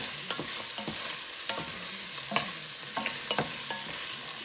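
Meat, onion and garlic sizzling in a non-stick pot while a wooden spoon stirs them, with a steady hiss and scattered sharp knocks and scrapes of the spoon against the pan.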